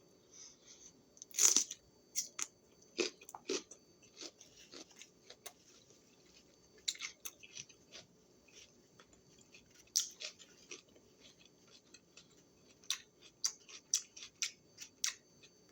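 Close-up crunching and chewing of a raw green bell pepper snack, in scattered bites, with a sharp crunch about a second and a half in and a quick run of crunches near the end.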